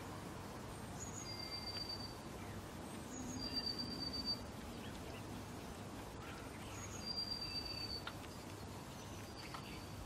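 A small songbird's thin, high whistle, repeated three times a few seconds apart: each a short higher note followed by a held, level whistle, over faint steady background noise.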